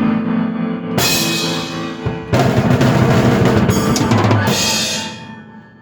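Drum kit and keyboard played together, bringing a piece to its end: held keyboard chords under a cymbal crash, then a drum roll of about two seconds and a final crash that fades out.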